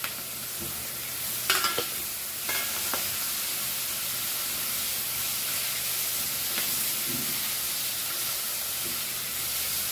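Oysters sizzling as they fry with tomato, chilies and masala in a nonstick kadhai, stirred with a silicone spatula. There is a steady frying hiss, and a few short knocks come between about one and a half and three seconds in.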